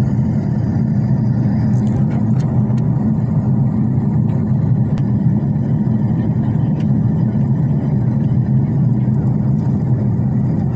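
Steady drone of an airliner's cabin in flight on approach, engine and airflow noise heavy in the low end, with a faint click about five seconds in.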